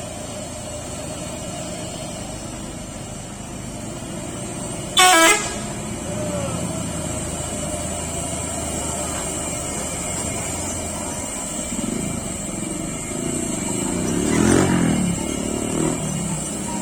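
Heavy truck running steadily, with one short, loud horn blast about five seconds in; the vehicle noise swells again near the end.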